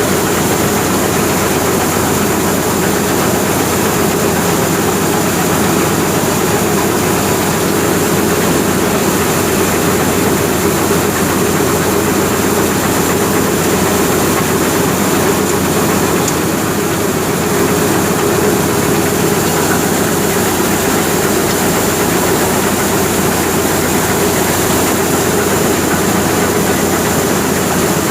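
Tractor-driven wheat thresher running steadily: the tractor's engine and the threshing machine together make a loud, even mechanical noise with a steady hum and no pauses.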